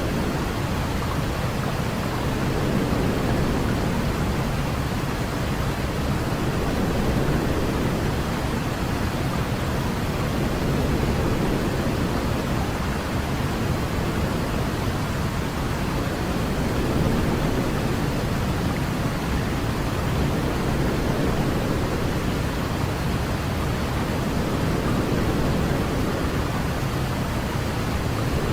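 Steady white noise for putting a baby to sleep: an even, unbroken hiss weighted toward the low end, a deep rush more than a bright one.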